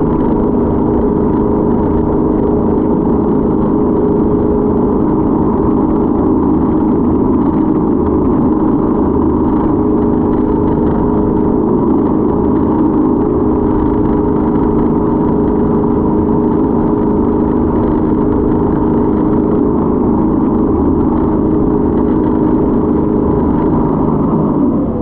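Motorboat engine running loud and steady at constant speed, with a steady hum of several even tones over a low rumble.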